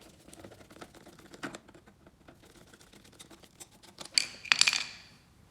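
Light clicks and plastic rattling as the air filter cover on a Craftsman lawn mower is worked loose and the filter taken out, with a louder burst of rattling clicks about four seconds in.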